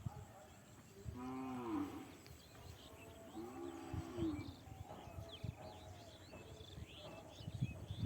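An animal gives two drawn-out calls, each rising and then falling in pitch, about two seconds apart, while birds chirp throughout.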